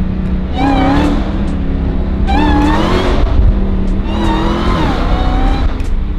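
Car engine revving hard in three bursts, each rising and falling in pitch, over a steady low rumble.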